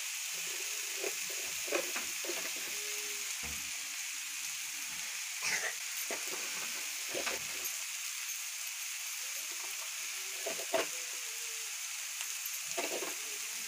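Bottle gourd and potato pieces sizzling as they fry with spices in oil in a metal kadhai, a steady hiss, with a few short scrapes of a flat metal spatula against the pan.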